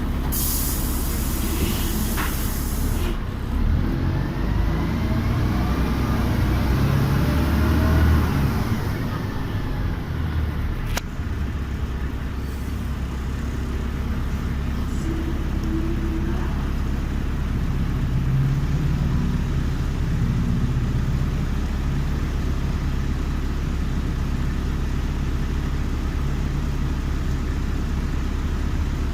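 LiAZ-5256 city bus heard from inside, opening with a loud hiss of released air. The bus then pulls away with its engine note changing as it gathers speed, and after a single click settles into a steady running drone.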